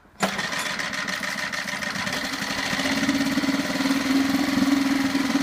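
SeaNovo 2.5 hp four-stroke outboard motor catching about a quarter second in and running steadily, growing a little louder and faster about three seconds in as it is held at a high throttle setting.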